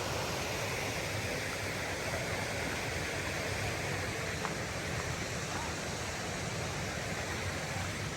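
Steady rush of flowing water, with a faint tick or two.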